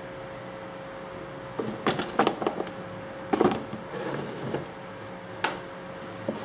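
Irregular clusters of sharp clicks and knocks from handling the hard plastic and metal parts of an electric drill being taken apart, over a steady faint hum.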